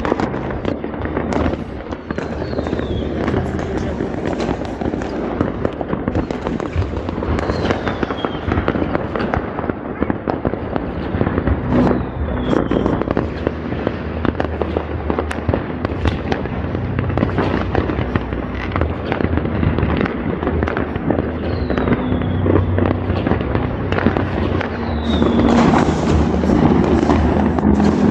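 Many fireworks going off across a city at once: a dense, unbroken run of bangs and crackling, with short falling whistles every few seconds, getting louder near the end.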